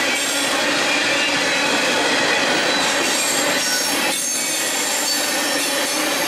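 Freight train tank cars rolling past with a squeal of many steady high tones from the wheels and brake shoes, the train dumping its brakes.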